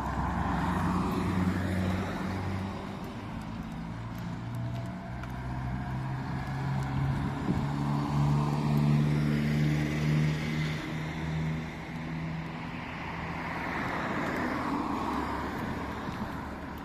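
Road traffic: motor vehicle engines running, with vehicles passing by several times and their engine pitch shifting as they go.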